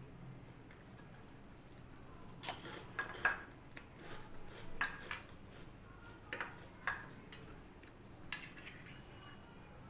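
Dishes and utensils clinking while a meal is eaten: a scatter of light, sharp clinks and taps against a plate or bowl, several with a brief metallic ring, bunched from about two seconds in to near the end.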